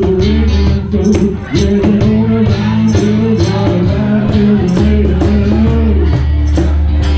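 Live acoustic band music: a cajón keeps a steady beat under string instruments playing a sustained melody.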